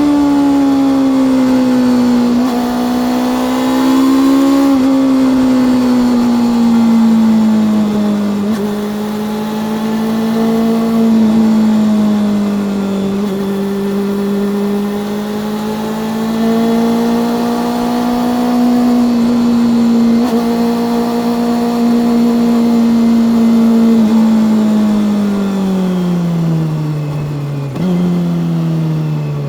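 Honda CB400SF's inline-four engine and exhaust under way, running at steady mid revs with the pitch drifting gently with the throttle. Near the end the revs fall away as the bike slows, with one short rise in pitch just before.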